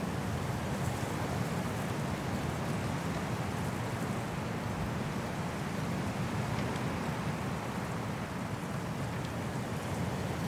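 High wind blowing through trees in a snowstorm: a steady, deep rush of noise that eases slightly about eight seconds in.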